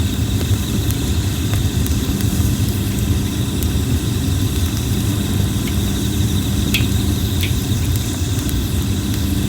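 Red plum wood burning in a campfire, with a few sharp crackles and pops, while insects trill steadily over a steady low rumble and hum.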